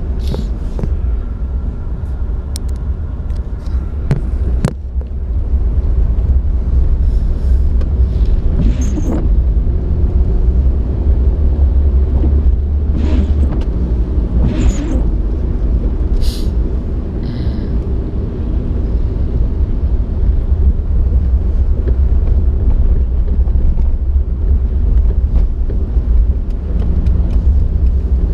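Steady low rumble of a moving vehicle, with a few scattered clicks and knocks.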